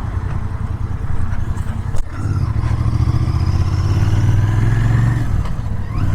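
Royal Enfield Interceptor 650's parallel-twin engine running through its stock exhausts under way. There is a sharp click about two seconds in, after which the engine note grows stronger and rises slowly before easing off near the end.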